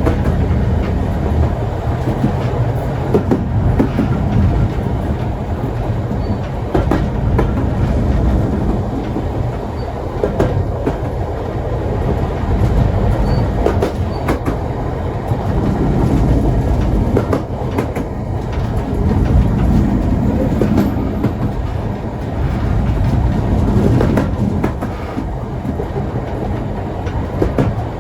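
Historic steam train carriages rolling along the track: a steady low rumble with irregular clacks and knocks as the wheels run over the rail joints.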